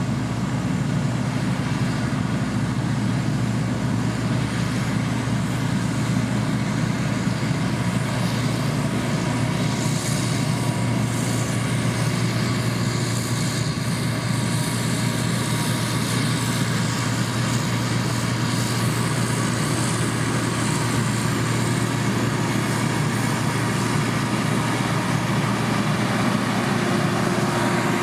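Diesel engine of heavy road-construction machinery running steadily, with no breaks over the whole stretch.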